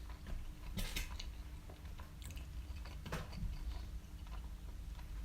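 Close-up chewing of a halal snack pack of doner kebab meat, melted cheese and sauce-covered chips: soft wet smacking and squishing, with a sharper bite or smack about a second in and another about three seconds in.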